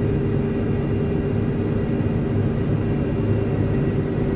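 Tractor engine running steadily, a low even drone with a constant pitch.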